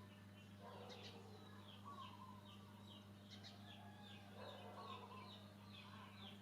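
Faint bird chirps, a quick run of short falling notes repeated several times a second, with a few lower warbling calls, over a steady low electrical hum.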